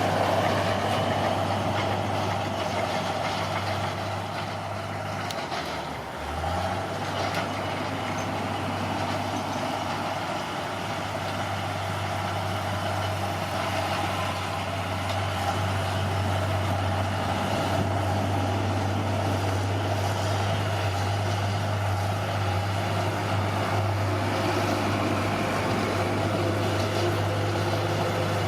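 Heavy diesel earthmoving machine engine running steadily, its low note dipping briefly about six seconds in before picking back up.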